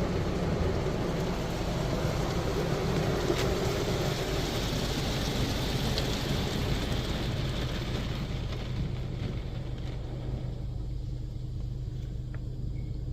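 Spot-free rinse water spraying onto the car in a touchless car wash, heard from inside the car as a steady hiss over a low hum. The spray tails off after about nine seconds, leaving the hum.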